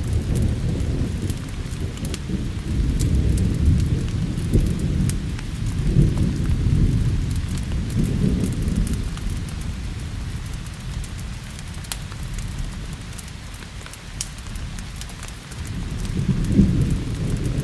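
Thunder rolling low over steady rain, swelling and fading several times and building again near the end, with scattered sharp crackles from a wood fire.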